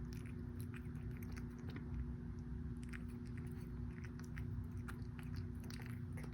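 A kitten chewing its food, with irregular small crunches and clicks over a steady low hum.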